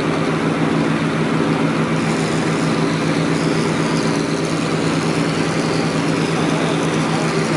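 A large engine running steadily at a constant speed, an even low hum that does not rise or fall.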